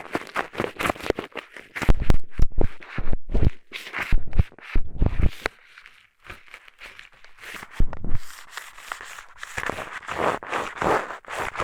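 Eyeglasses used as an ear pick, scratching and rubbing against a binaural microphone's ear: a run of quick scratchy strokes, with heavy low thuds of handling noise between about two and five and a half seconds in, a short pause near six seconds, then softer continuous scratching.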